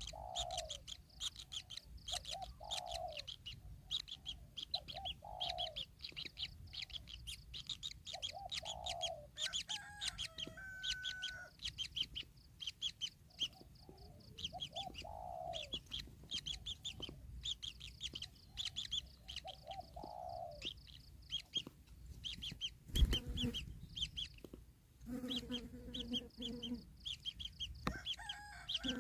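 Birds calling: a fast, steady run of high chirps with lower, falling clucking calls every second or two. There is a sharp knock about two-thirds of the way through.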